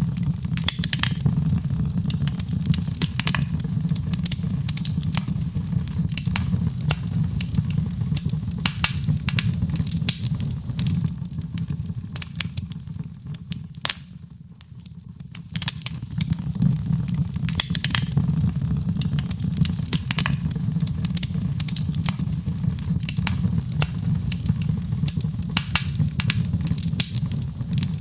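Wood fire in a fireplace crackling, with irregular sharp pops and snaps over a steady low rumble of flame; the crackling eases briefly about halfway through, then picks up again.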